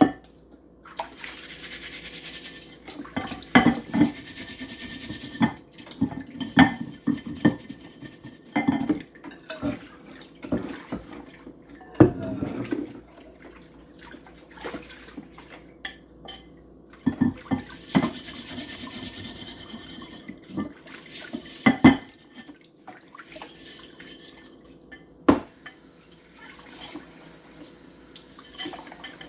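A glass microwave turntable plate being scrubbed and handled in a kitchen sink, knocking and clattering against the sink. A tap runs twice for a few seconds, once near the start and once past the middle.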